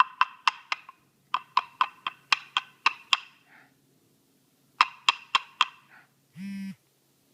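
Quick runs of sharp, pitched knocks, about four a second, in three bursts, then a short buzzing tone of about half a second near the end.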